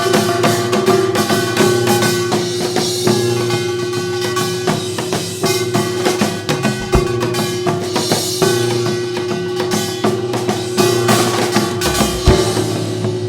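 Korean traditional ensemble music, instrumental: a held melody note over busy drumming with many quick strikes.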